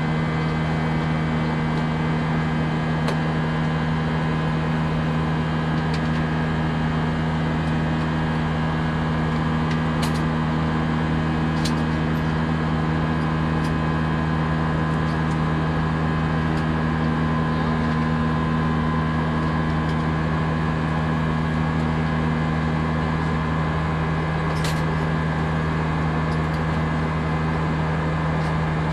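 Steady cabin drone of an Airbus A319 in flight: engine and airflow noise with a constant low hum. A few faint clicks come through, about ten seconds in, shortly after, and near the end.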